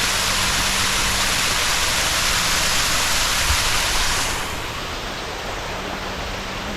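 Small waterfall: a steady rush of falling water. It turns quieter and duller about four seconds in.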